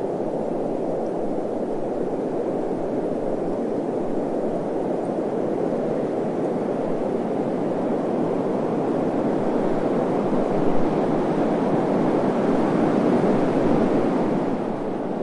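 Steady desert wind, an even rushing noise that grows a little louder about ten seconds in.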